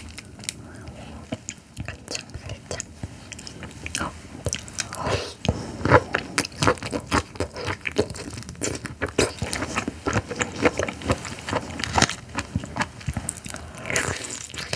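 Close-miked biting and chewing of raw carabinero shrimp. It is quieter for the first few seconds with scattered small clicks, then becomes a dense run of crisp clicks and crunches from about four seconds in.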